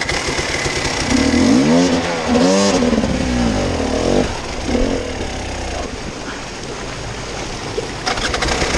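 Off-road vehicle engine revving up and down in repeated bursts, its pitch rising and falling, over a steady low rumble.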